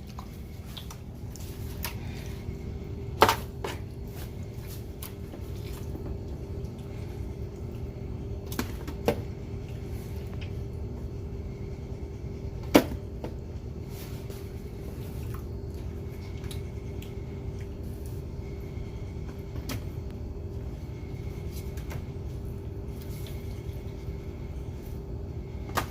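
Kitchen handling noises: a few sharp knocks and clicks, the loudest about 3 seconds in and near the middle, over a steady low hum.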